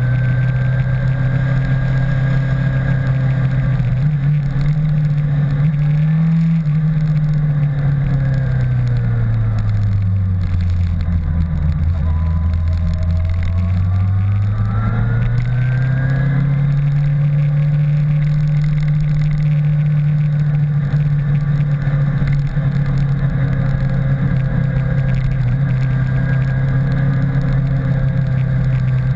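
Motorcycle engine running while riding. The engine note holds steady, falls about eight seconds in as the bike slows, stays low for a few seconds, then climbs back up about fourteen seconds in and holds steady again.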